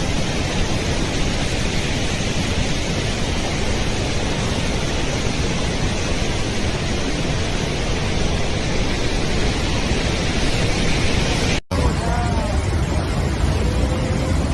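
Storm noise: a loud, steady rushing hiss of wind and rain on the microphone. It breaks off briefly at a cut near the end and goes on with a deeper rumble.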